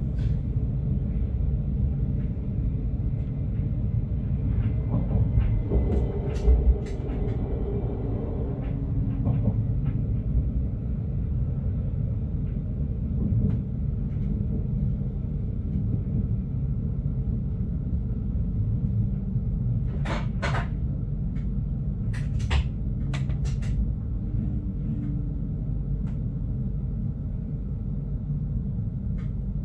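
Stadler GTW train heard from inside the cab, running along the track with a steady low rumble. Sharp clicks and knocks come twice: a pair about six seconds in, and a cluster of several about twenty seconds in.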